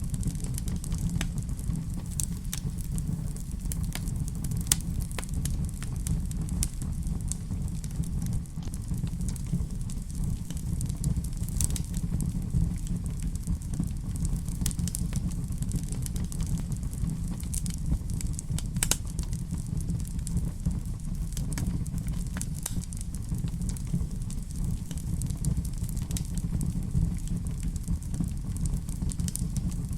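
Wood fire crackling in a fireplace: a steady low rumble of the flames with frequent scattered sharp pops and snaps.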